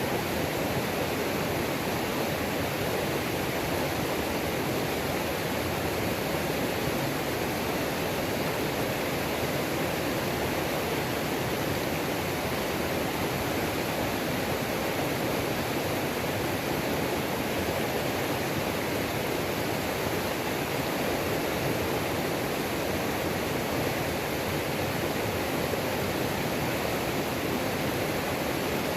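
Waterfall on a mountain creek: a steady rush of falling water.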